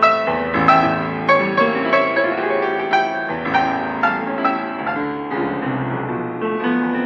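Solo piano playing an instrumental interlude of a Russian romance, a flowing line of struck notes over a bass accompaniment.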